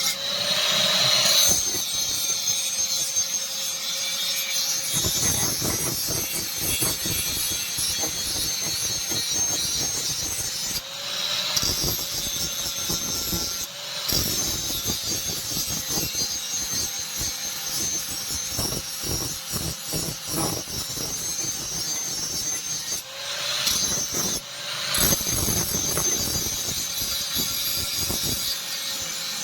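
Steel being ground or cut by a power tool over a steady motor hum. Continuous abrasive scraping, with the motor's pitch dipping briefly several times as the tool is loaded.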